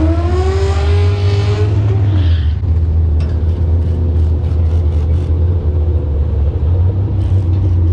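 Drag-race car engine revving, its pitch climbing over the first second or two and then dropping away, after which it runs on at idle with a steady deep rumble.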